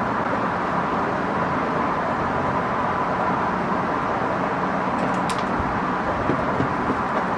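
Steady outdoor background noise with a faint steady hum, and one light click about five seconds in.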